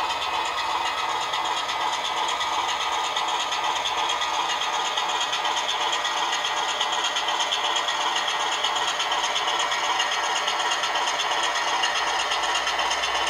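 Sulzer diesel engine sound of a Class 24 locomotive, recorded from the real engine and played back by a model's DCC sound decoder through a small speaker. It runs at a steady idle beat with little bass and a faint whine in the background.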